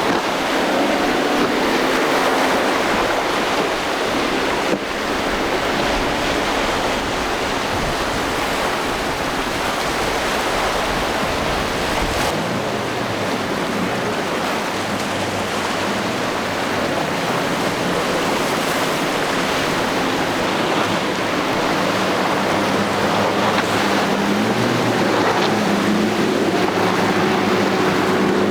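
Motorboat engines droning as boats run an ocean inlet, over a steady wash of waves and surf. One engine's pitch rises near the end as it throttles up or comes closer. A deep wind rumble on the microphone runs through the first half and stops suddenly.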